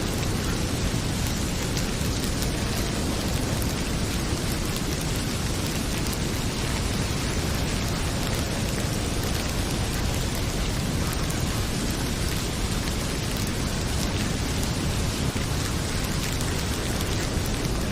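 Heavy rain pouring steadily, with a fireplace crackling: a dense, even hiss and low rumble with scattered small pops.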